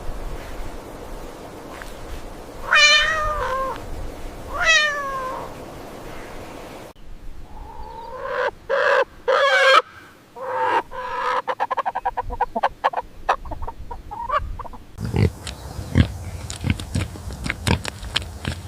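Domestic cat meowing: two drawn-out meows falling in pitch, then a run of shorter, quicker mews. Near the end, scattered sharp clicks and taps.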